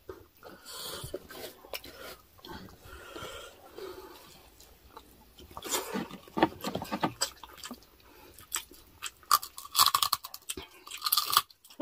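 Close-miked chewing with crisp crunches of deep-fried pork crackling (chicharon bagnet), loudest around six to seven seconds in and again near the end.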